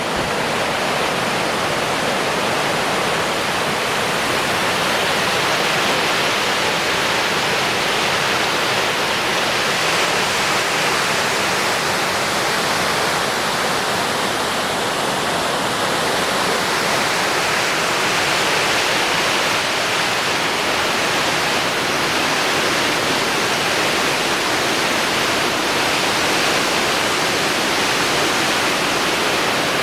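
Flash-flooded creek rushing: a loud, steady roar of fast, high water from a usually dry stream bed swollen by a day of non-stop rain.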